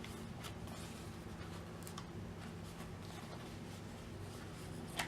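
Faint, scattered ticks and rustles of washi tape and planner paper being handled, over a steady low hum.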